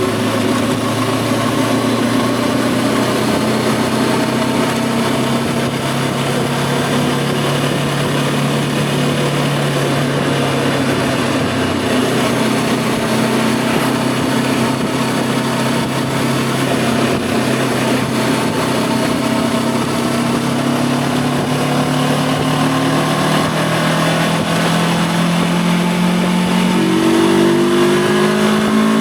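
Voge 525 DSX parallel-twin motorcycle engine running under way at a fairly steady pitch, with wind noise over the helmet microphone. Over the last few seconds the engine note climbs as the bike accelerates.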